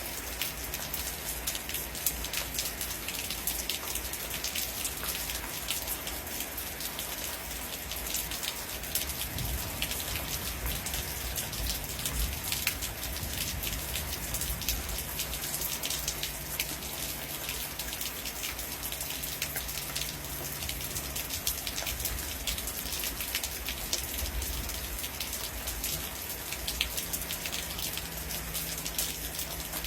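Heavy rain falling steadily on a surface, with many sharp drop ticks over a constant hiss and a low rumble underneath.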